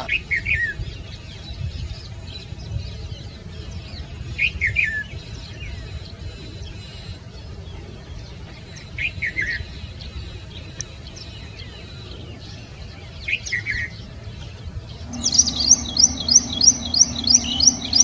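Red-vented bulbul calling: a short falling phrase of a few notes, given four times about four and a half seconds apart. Near the end a tropical gnatcatcher takes over with a fast run of high, sharp notes, about four a second.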